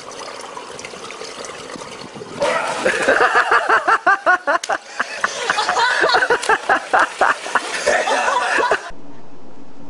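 Water splashing at first. About two and a half seconds in, loud excited human voices start up in rapid short bursts, like hard laughter, and cut off near the end.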